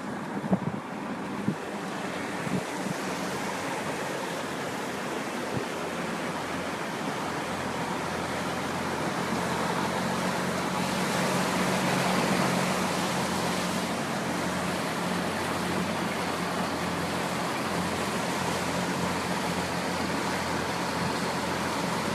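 High-water truck driving through floodwater: a steady rush of water with a low engine drone underneath. There are a few knocks in the first couple of seconds, and the rush swells slightly about halfway through.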